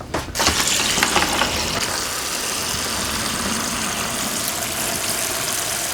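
Water rushing out of a newly plumbed blue (cold-water) PEX supply line into a bucket as its valve is opened, starting about a third of a second in after a few clicks and then running steadily: the line being flushed of sawdust.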